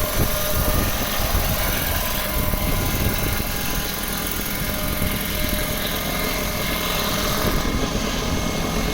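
Rotors of a fertiliser-spraying helicopter running steadily, with a constant whirring hum and no change in pitch or loudness.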